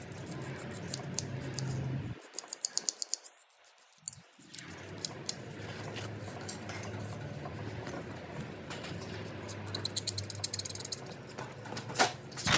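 Scraping and scratching on the engine block as the water pump's gasket seating surface is cleaned, in quick runs of fine strokes, over a low steady hum.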